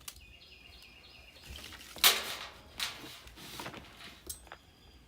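Handling noises from work on a furnace's wiring: a sharp click at the start, a loud brief scrape or rustle about two seconds in, then another shorter one and a few small knocks.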